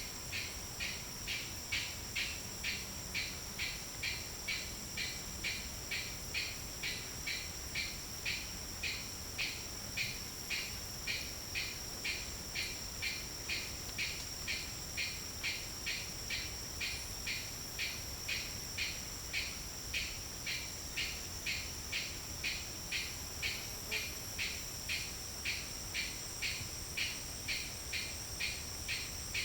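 Forest insect chorus: a steady high-pitched drone with a pulsing call repeating about twice a second, and a few faint high whistles now and then.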